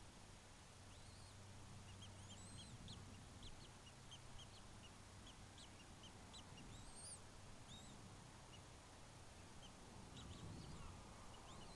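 Faint, short, high-pitched bird chirps and peeps scattered throughout, over a low steady hum.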